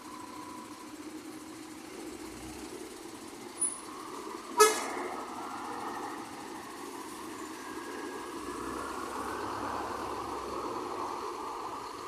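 Scania coach engine running as the bus pulls out, growing louder in the second half. About four and a half seconds in, the horn gives one very short, sharp toot.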